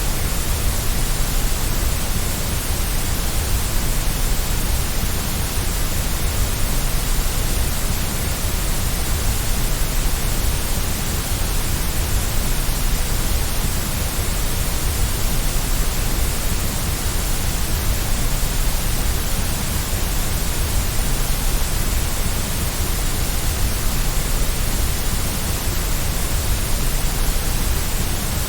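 Steady, unbroken white noise: an even hiss spread from deep rumble to high hiss, without change or any separate sounds.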